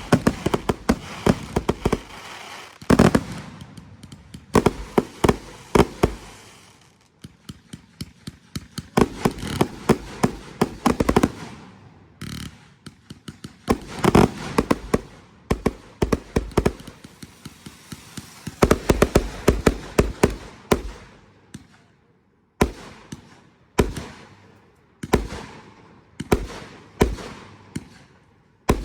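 Consumer fireworks going off: volleys of sharp bangs and pops in rapid clusters, each cluster a few seconds apart, with short lulls between.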